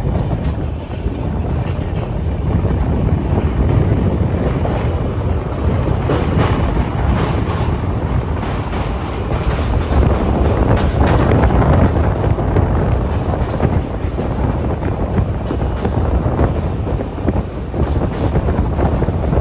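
Passenger train running on the rails: a steady, loud rumble of wheels and carriages with a continuous patter of rail clicks and rattles, and wind buffeting the microphone.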